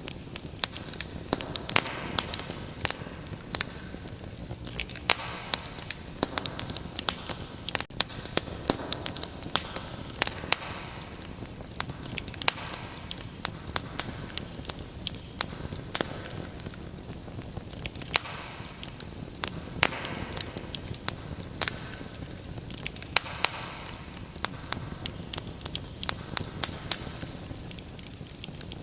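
Wood fire burning in a fireplace, crackling with many irregular sharp pops and snaps over a steady low hiss.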